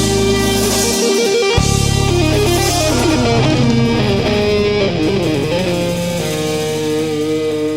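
Jazz fusion band led by electric guitar over electric bass. Busy lines give way to fast descending runs, then a sustained chord that rings out as the piece ends.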